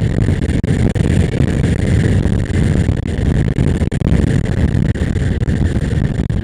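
Motorcycle on the move: a steady, loud low rumble of wind and engine on the onboard microphone.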